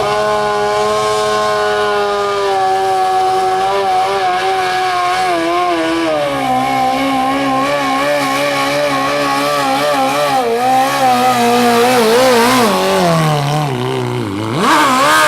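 Modified lawn tractor pulling engine running hard at high revs under the load of a pulling sled. Its pitch sinks gradually over the first few seconds and then wavers. It slides down further, as if bogging, and then revs sharply back up near the end.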